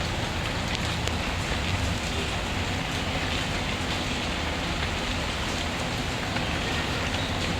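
Steady rain falling: a constant, even hiss with a low rumble underneath and faint scattered ticks.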